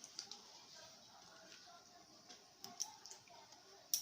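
A few faint clicks and taps, the loudest near the end, over quiet room tone.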